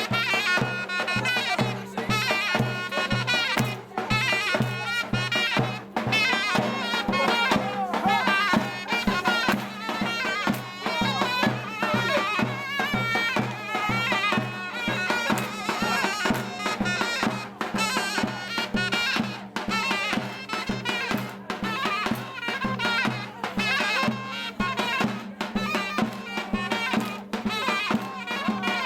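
Turkish folk dance music: a shrill reed pipe plays a fast, ornamented melody over a steady drum beat of about three strokes a second.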